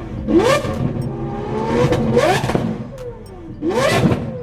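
A car engine revved in short blips, about three in a row, each climbing in pitch and then dropping away.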